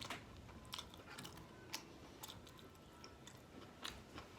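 A person chewing Chinese takeout food close to the microphone, with irregular wet mouth clicks and smacks.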